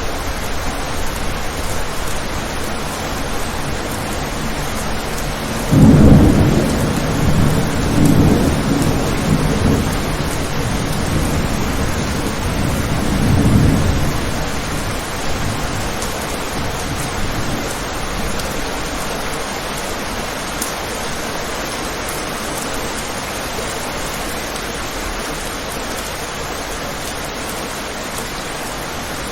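Steady rain on a window, with a sudden thunderclap about six seconds in that rolls on in deep rumbles, swelling again twice before fading away.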